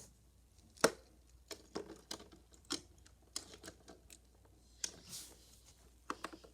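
Die-cast toy cars and a plastic Hot Wheels playset being handled: a string of irregular light clicks and knocks, the sharpest about a second in, with a short soft scraping swell near the end.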